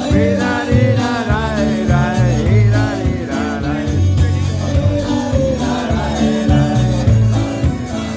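Live polka band playing at full volume. A melody line bends and wavers over a steady drum beat and a busy bass line.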